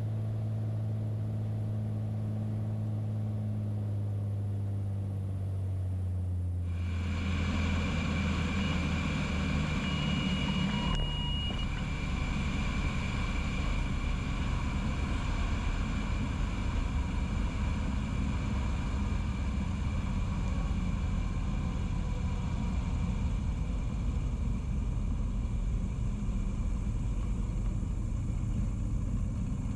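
Light aircraft in flight: a steady engine drone that changes abruptly about seven seconds in to a louder, fuller rushing noise. A brief high tone sounds about ten seconds in.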